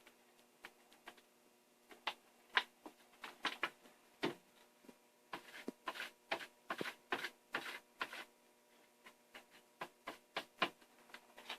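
Irregular small clicks, taps and a few louder clacks of tools and metal parts being handled on a workbench, with a faint steady hum underneath. No drill is running.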